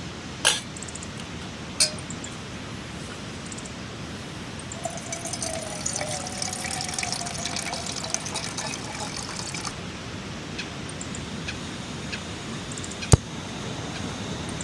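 Liquid being poured into a container for about five seconds, its pitch rising slightly as it fills. Sharp clicks or knocks come just after the start, near two seconds, and loudest near the end.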